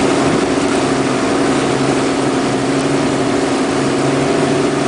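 Motorboat engine running steadily at cruising speed, with a constant rush of wind and water over it.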